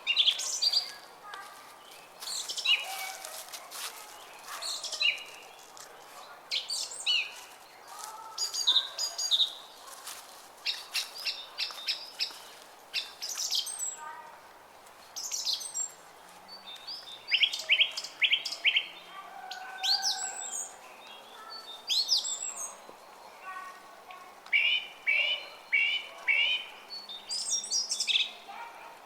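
Several small birds chirping and singing, many of the calls quick runs of repeated notes, over the faint steady murmur of a brook.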